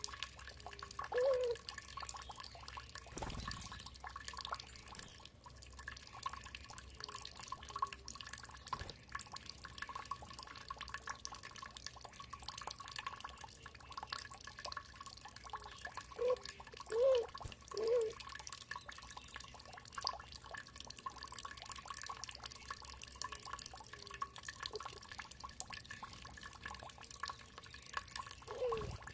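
Water dripping and trickling in a steady patter of fine drops, with a few short low bird calls: one about a second in, three in quick succession in the middle, and one near the end.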